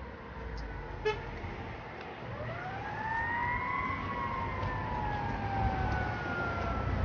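Fire truck siren in wail mode: one slow rise in pitch over a couple of seconds, then a long, slow fall, over the low rumble of traffic. A short sharp click sounds about a second in.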